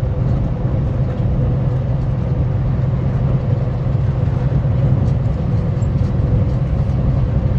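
Semi truck underway: a steady low drone of diesel engine and road noise, with a faint steady whine above it.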